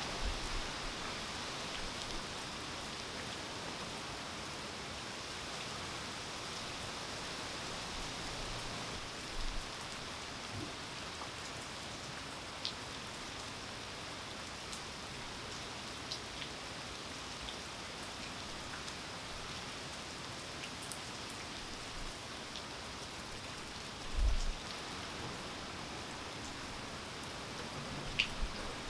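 Steady rain falling, an even hiss with scattered single drops ticking. A short dull thump sounds late on.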